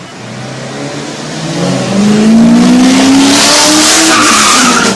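A car engine accelerating hard, its pitch rising steadily, with a loud rushing hiss swelling in over the middle; it cuts off suddenly at the end.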